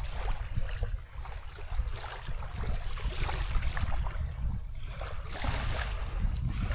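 Wind buffeting the microphone with a gusty low rumble, over small waves washing in and out on the shore, swelling every couple of seconds.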